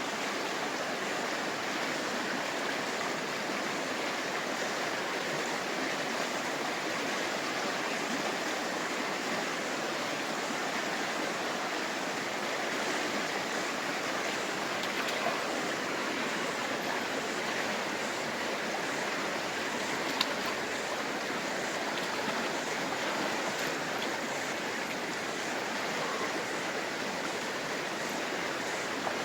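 Fast river water rushing steadily, with a couple of brief clicks about fifteen and twenty seconds in.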